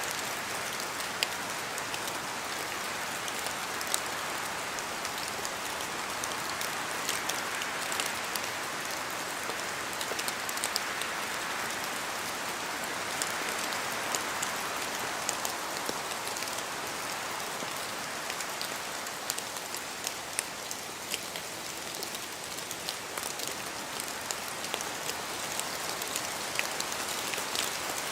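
Steady rain hissing in a forest, with many sharp, separate drops falling from the trees. The hiss swells and eases a couple of times.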